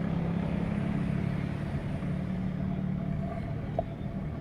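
A motor vehicle's engine runs nearby on the road as a steady hum over road rumble, easing slightly near the end. A short click sounds near the end.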